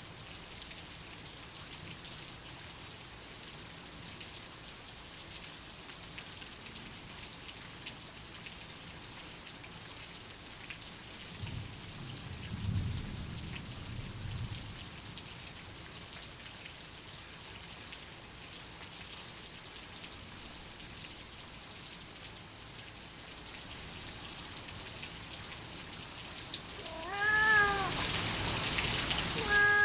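Steady rain hissing, with a soft low rumble of thunder a little before the midpoint. Near the end a louder burst of noise comes in and a cat meows twice, each meow rising and then falling in pitch.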